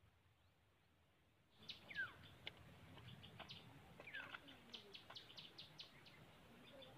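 Small birds calling: after near silence, repeated short high chirps and quick downward-sliding calls start about a second and a half in and keep on.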